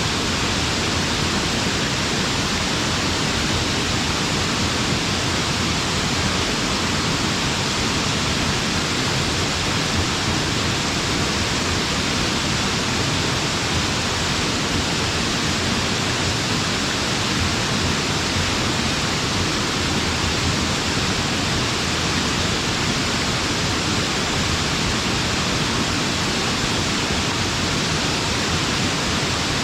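Waterfall: water falling with great force in a steady, even rush.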